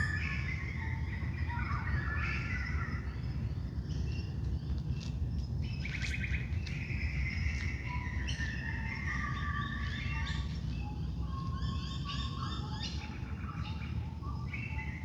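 Dawn chorus: many wild birds singing and calling at once, their songs overlapping throughout, over a steady low background rumble.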